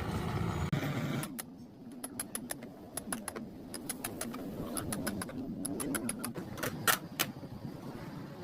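A low steady hum that stops a little over a second in, then a run of irregular sharp clicks and taps, the loudest near the end.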